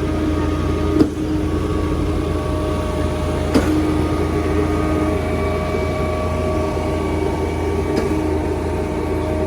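Heavy diesel engines of a concrete mixer truck and a concrete boom pump truck running steadily while concrete is fed into the pump, with a few sharp knocks along the way.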